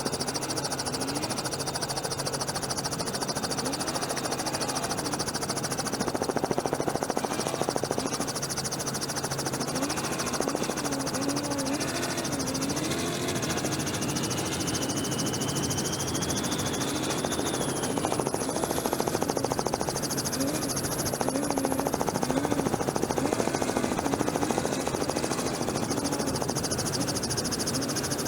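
Helicopter rotor and turbine noise running steadily, with a fast, even chop. Underneath, a lower engine-like tone wavers up and down, and a brief rising whine comes in about two thirds of the way through.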